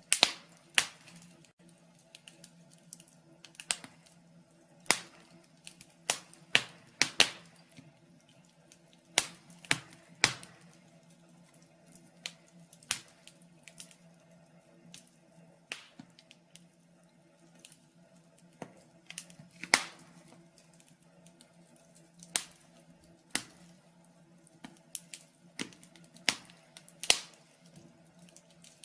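Wood fire burning in a fireplace, crackling with irregular sharp pops and snaps, some loud, a few seconds apart or in quick clusters, over a faint steady hum.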